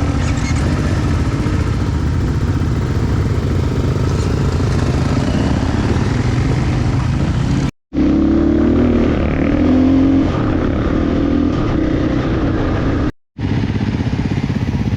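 KTM 450 EXC single-cylinder four-stroke enduro motorcycle engine running under way, its revs rising and falling as it is ridden. The sound cuts out twice, briefly.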